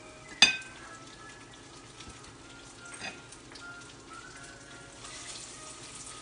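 Breaded tofu frying in oil in a pan, a steady sizzle that grows louder about five seconds in. A sharp clack about half a second in is the loudest sound, with a softer knock around three seconds.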